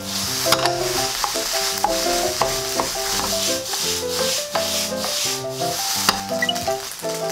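Rice frying in a frying pan, tossed and stirred, the grains sizzling and swishing in waves, under background music.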